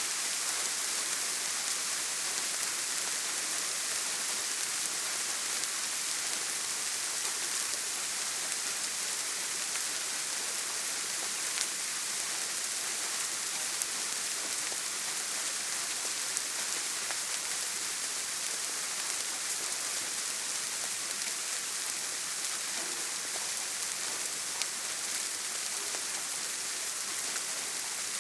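Steady heavy rain falling on a tin roof: an even hiss with a few sharper drop ticks now and then.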